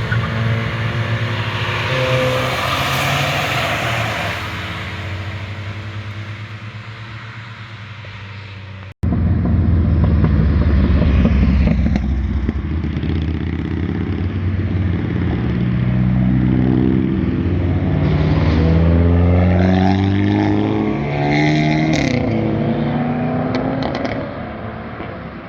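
Performance cars' exhausts on flybys. One car's engine note fades away as it drives off. After an abrupt cut, another car comes through loud, its engine pitch rising and dropping repeatedly as it accelerates and shifts, then fading near the end.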